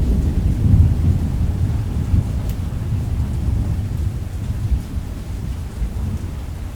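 A deep rumble of rolling thunder, loudest about a second in and then slowly dying away, over steady rain.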